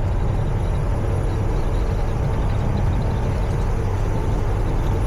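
Peterbilt 379 semi truck cruising on the highway, heard from inside the cab: a steady low drone of engine and road noise.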